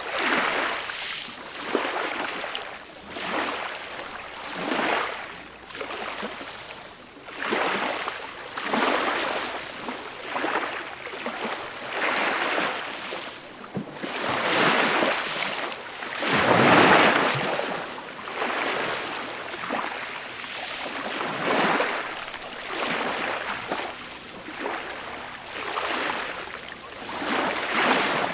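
Small, gentle sea waves breaking and washing up the shore, one soft swell of surf after another every second or two, with one larger wave about two-thirds of the way through.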